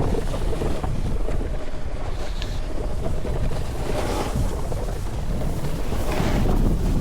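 Wind rushing over the microphone during a snowboard run, with louder hissing swooshes about four and six seconds in from the board sliding across the snow.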